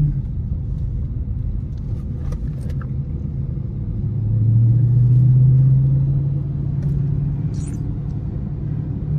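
Dodge SRT V8 engine heard from inside the cabin: a low, steady rumble that swells louder about four seconds in as the car accelerates, then eases back to a cruise.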